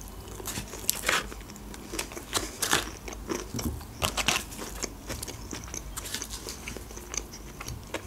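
Close-miked chewing of breaded chicken nuggets: irregular crunches and small wet mouth clicks.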